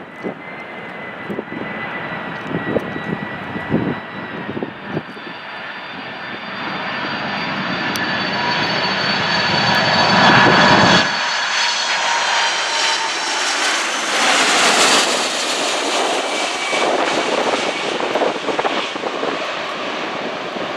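Jet airliner passing close by: the engine whine and rushing noise build to a peak about halfway through, then ease off into a hiss. Wind buffets the microphone in the first few seconds.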